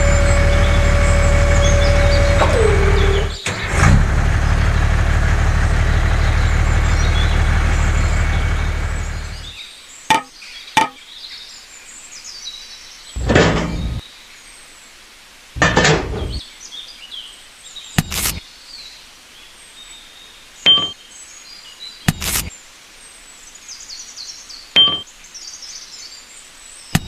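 A motor runs steadily with a held tone that drops in pitch, then stops about nine seconds in. After that come scattered sharp knocks every couple of seconds, with faint bird chirps.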